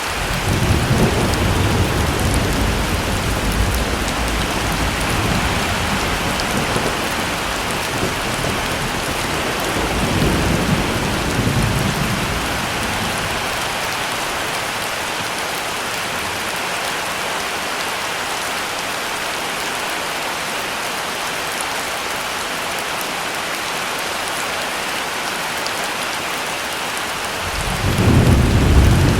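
Heavy rain falling steadily, with rolls of thunder rumbling low: one long roll in the first several seconds, a shorter one about ten seconds in, and another building near the end.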